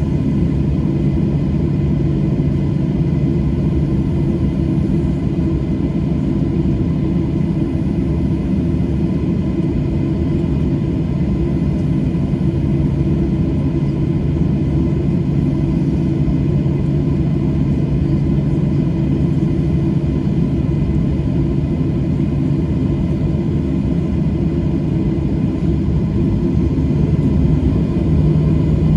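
Boeing 737-800's CFM56-7B jet engines running, heard as a steady rumble with a few constant hums inside the passenger cabin; it gets slightly louder near the end.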